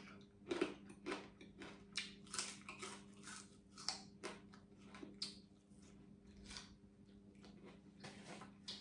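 Crunching and chewing of crisp deep-fried sun-dried fish close to the microphone: a run of irregular crisp crunches that thin out after about six seconds. A faint steady hum lies underneath.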